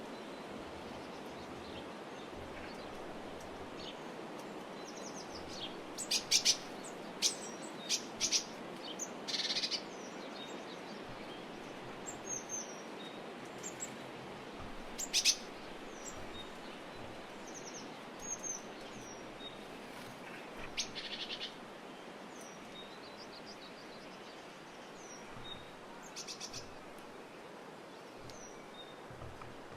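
Small birds calling: scattered short high chirps and a few brief trills over a steady hiss. The loudest sharp notes come in a cluster about six to eight seconds in and once about halfway through.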